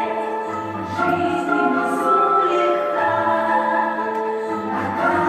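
Music with voices singing, several held notes sounding together and changing about once a second.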